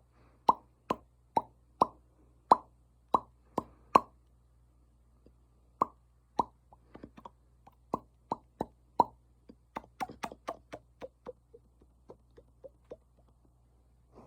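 ASMR mouth sounds: a series of short, hollow pops made with the mouth, irregularly spaced with a brief pause partway through. A quick run about ten seconds in drops in pitch.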